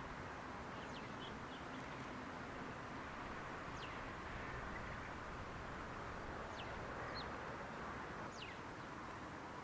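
Steady outdoor background noise with a handful of short, high, downward-sliding bird calls scattered through it, about five in all.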